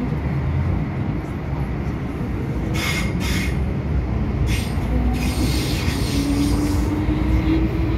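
MTR M-Train electric metro train running, with a steady low rumble and its motor whine slowly rising in pitch as it picks up speed. The wheels squeal briefly about three seconds in and again through the second half.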